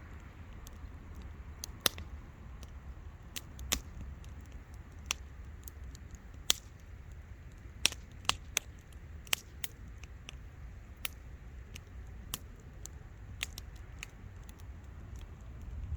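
Wood campfire crackling: irregular sharp pops and snaps, about one or two a second, over a steady low rumble.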